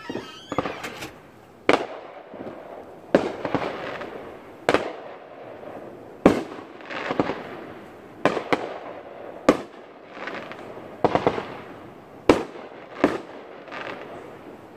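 Aerial fireworks bursting: a dozen or more sharp bangs, about one a second and sometimes two close together, each trailing off in a crackling rumble.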